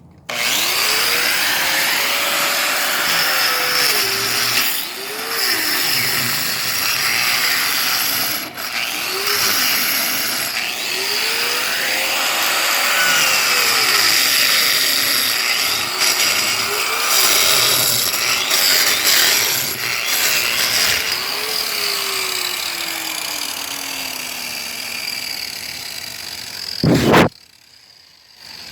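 Electric power tool cutting into concrete, loud and gritty. The motor's pitch sags and recovers every few seconds as the cut loads it. It ends with a short loud burst about 27 seconds in, then stops.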